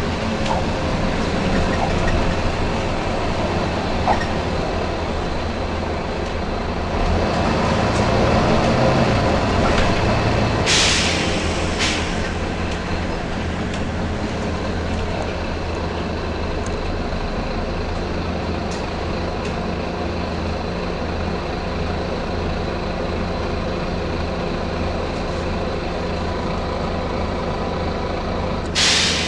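Volvo B9TL bus's diesel engine running steadily, with sharp hisses of compressed air from its air system: a longer hiss followed by a short one about a third of the way in, and another hiss near the end.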